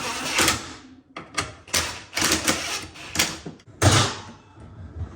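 Irregular knocks and clattering from work on a refrigerator door as its hinge screws are retightened, with the loudest knock about four seconds in.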